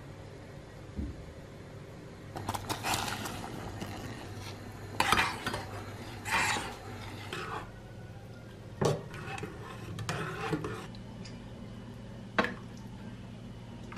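Kitchen utensils at work: a spoon stirring and scraping in a bowl or pan, with clinks of metal on dishware and a few sharp knocks, over a steady low hum.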